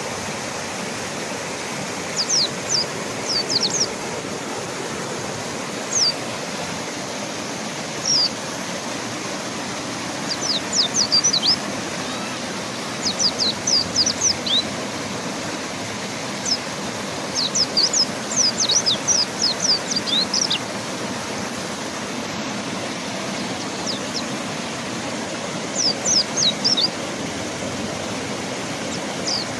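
Mountain white-eye calling in quick clusters of thin, high, downward-slurred chirps, three to six at a time, every few seconds over the steady rush of a flowing river.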